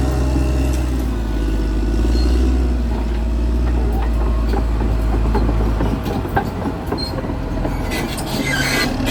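Caterpillar D6R XL bulldozer's diesel engine running with a loud, low drone while its steel tracks clank and squeal. The drone eases about six seconds in, and a burst of metallic clatter comes near the end.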